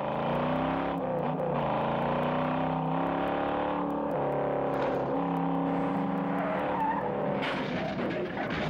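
V8 muscle-car engines revving hard in a street chase, the pitch climbing and dropping back several times as the cars accelerate and shift gears, with tyre noise near the end.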